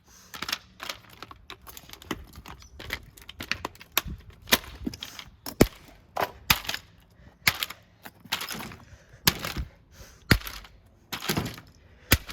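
Repeated hard blows smashing a Lenco 250 mm ceiling exhaust fan: sharp, irregular cracks and bangs, roughly one a second, with parts breaking and rattling.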